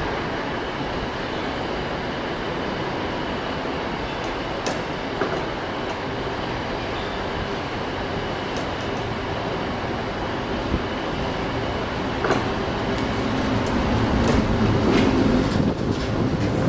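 Train running at a station platform: a steady running noise with a few sharp clicks, growing louder over the last few seconds.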